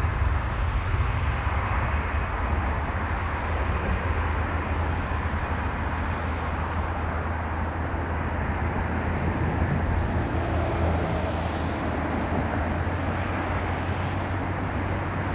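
Steady aircraft engine noise: a broad rumble that eases a little over the first few seconds and then holds level.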